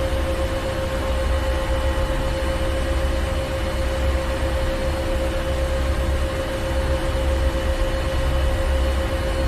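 Ship's engine room: machinery running steadily with a deep, heavy rumble and a constant mid-pitched hum.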